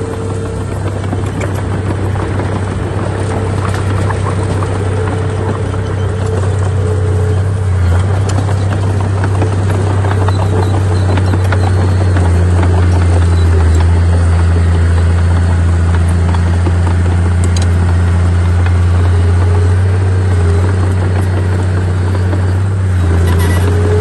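Heavy diesel earthmoving machinery running steadily under load, a continuous low engine drone that grows slightly louder over the stretch.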